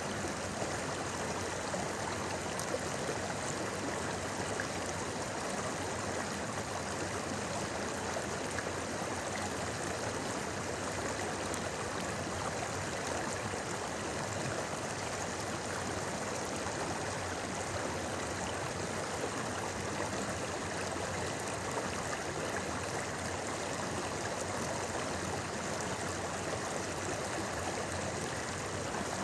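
Shallow river flowing over rocks, a steady babbling, rushing water sound.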